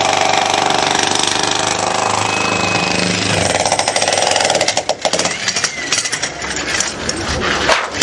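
Jackhammer breaking concrete: a rapid, steady rattle for about four seconds, then stopping and starting in short bursts and separate knocks for the rest.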